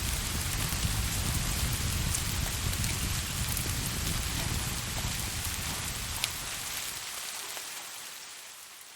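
Steady rain on a surface with a deep low rumble underneath, and a single sharp click about six seconds in. The rumble drops away around seven seconds, and the rain fades out steadily over the last two seconds.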